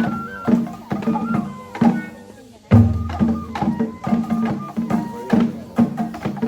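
Japanese festival hayashi music: taiko drums struck in a steady, quick rhythm under a high bamboo flute melody of held notes. About a third of the way in, a louder, deeper drum joins.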